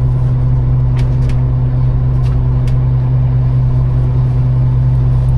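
A small fishing boat's engine running steadily, a loud even drone, with a few light sharp knocks in the first three seconds.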